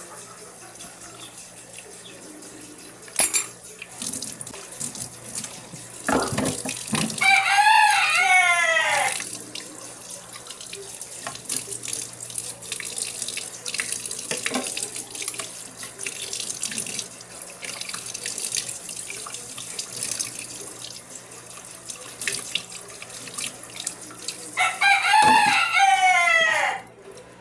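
Water running from a tap into a kitchen sink, with a rooster crowing twice, a long falling crow each time, about seven seconds in and again near the end.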